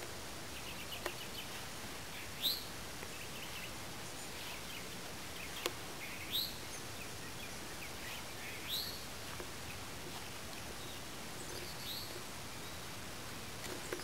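A bird calling repeatedly, a short rising chirp every two to four seconds, over steady outdoor background noise, with a few sharp clicks in between.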